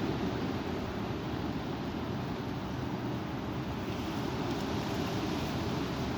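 Strong wind blowing, a steady low noise with no letup.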